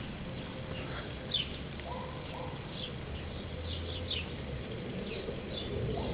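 Small birds chirping: a handful of short, high chirps spread through, over a steady low background.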